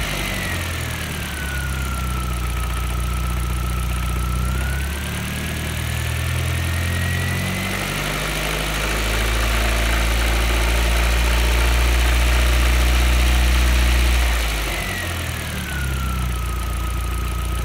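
Audi B5 A4's 1.8-litre turbocharged four-cylinder (AEB) engine running with a knock, the complaint this recording was made for. It idles, is held at raised revs for several seconds about midway, then drops back, with a thin whine falling and rising along with the revs.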